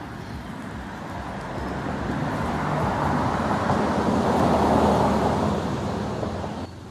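A road vehicle passing by: a rushing noise with a low hum beneath that builds to a peak about five seconds in, then fades and cuts off suddenly near the end.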